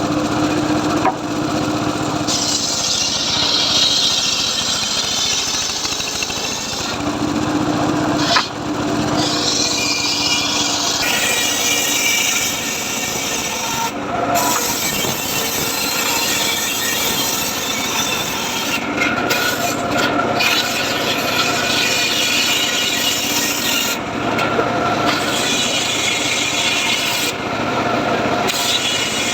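Homemade circular saw rig ripping through a teak log: a continuous, loud sawing noise that shifts in tone every few seconds as the blade bites, with short spells of steady hum near the start and around eight seconds in.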